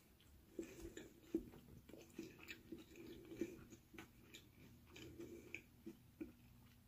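A person chewing food with the mouth closed: faint, irregular soft wet clicks and smacks, a few every second.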